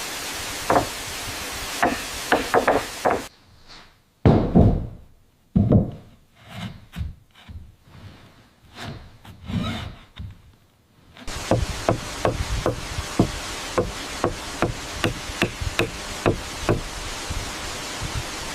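Hammer striking wood in repeated blows. A few quick strikes come first, then some separate heavy thumps, then a steady run of strikes at about two a second over a steady rushing background noise.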